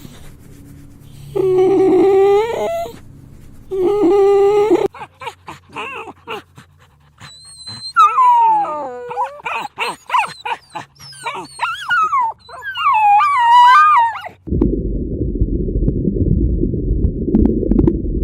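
A dog whining and whimpering, with two longer calls near the start and then a run of high whines that rise and fall in pitch. In the last few seconds a loud, steady, low rumbling noise takes over.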